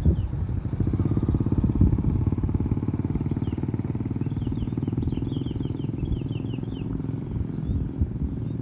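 Honda C70 motorcycle with a 180cc engine running steadily, its firing pulses even and unbroken. A series of short high chirps sounds over it from about three to six seconds in.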